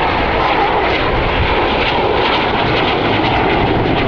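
Fixed-wing aircraft flying past, its engine noise a loud, steady rush.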